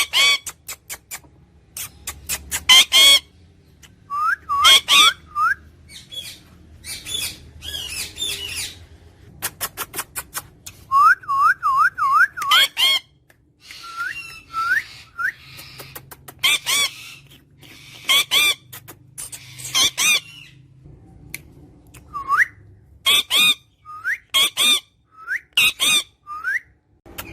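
A parrot calling: harsh squawks mixed with quick runs of short, clear, rising whistles, repeated throughout.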